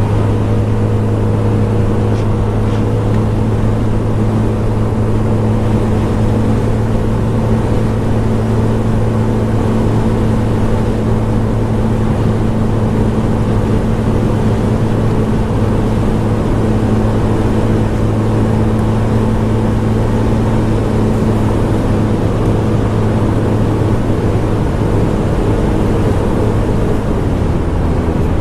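Scomadi TT125 scooter's single-cylinder four-stroke engine running steadily at cruising speed, with road and wind noise. The engine note drops a little near the end.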